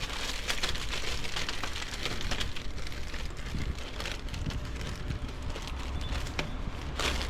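Onions frying in olive oil on a foil-lined flat-top griddle: a steady sizzle with fine crackling.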